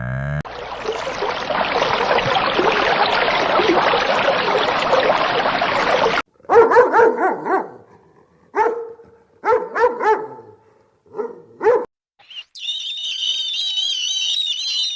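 A dog barking, about six short barks spread over several seconds. Before the barks comes a long stretch of rough, hissing noise. After them comes a high, wavering whine.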